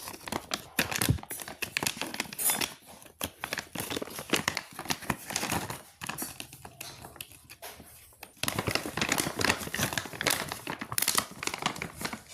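Crinkling and crumpling, as of something being scrunched by hand, in irregular bursts with short lulls.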